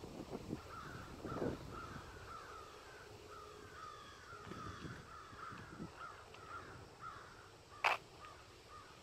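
Birds calling in a long run of short, quick calls that rise and fall in pitch, fairly faint. A single sharp click just before the end stands out above them.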